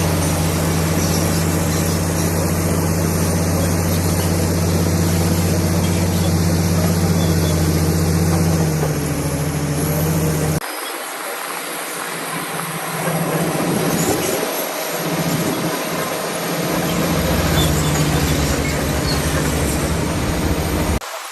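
Komatsu D65PX crawler bulldozer's diesel engine running steadily under load. About halfway through the sound changes abruptly, and the engine note then rises and falls as the machine works.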